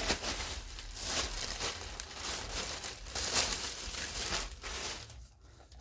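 Packaging crinkling and rustling as it is handled, in irregular handfuls, dying away near the end.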